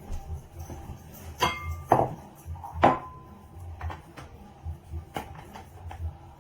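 A glass bowl clinking three times, each strike ringing briefly, with lighter taps in between, over background music.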